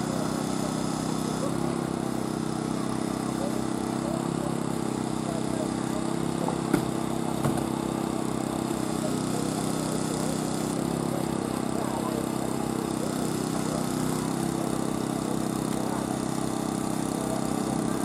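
An engine runs steadily while hydraulic rescue tools work on a car. Two sharp cracks come about seven seconds in, less than a second apart.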